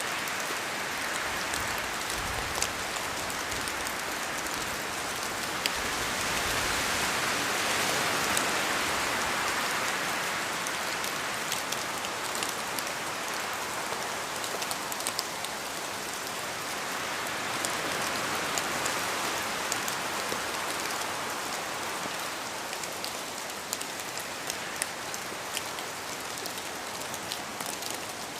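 Steady rain falling in a forest, with many separate drops ticking as they fall from the trees. The rush swells louder twice, once about a third of the way in and again past the middle, as wind moves through the trees.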